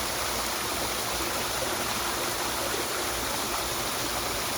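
Swimming-pool waterfall feature running: a steady, even splash of falling water.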